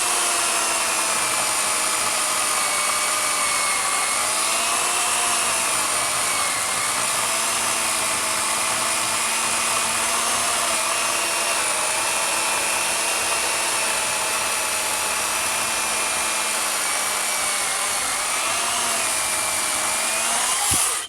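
Proyama PCS 18A 15-amp corded electric chainsaw cutting through an oak log: a steady, loud motor whine whose pitch dips briefly a few times. It cuts off suddenly near the end.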